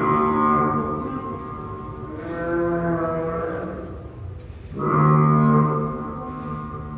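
Recorded dinosaur roars from a museum exhibit's speakers: three long, low, moo-like calls, the first right at the start, the next about two seconds in, and the loudest about five seconds in.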